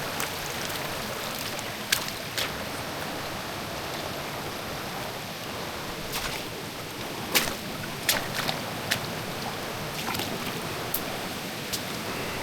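Mountain creek water rushing steadily, with a dozen scattered sharp clicks and knocks over it, the loudest about two seconds in and past the middle.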